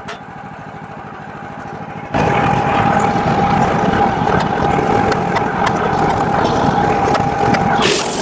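Portable band sawmill's gas engine running at low speed with a regular low pulse. About two seconds in it abruptly becomes much louder and runs at high speed, with a steady whine from the running band blade. Near the end a harsher, hissier noise comes in.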